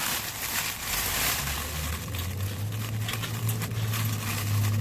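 Sheet of the temporary garage door rustling and crinkling as it is opened by hand, with a steady low hum coming in about a second and a half in.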